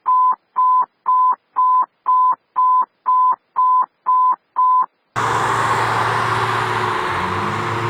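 A single-pitch electronic beep repeated about twice a second, ten times, with dead silence between. About five seconds in it cuts abruptly to the steady rumble of a fire engine and street noise, with a siren starting to wind up.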